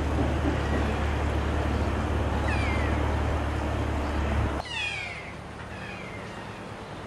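Kea parrots calling: several shrill, falling cries, with a few more in quick succession past the middle. Under them a steady low rumble that stops abruptly partway through.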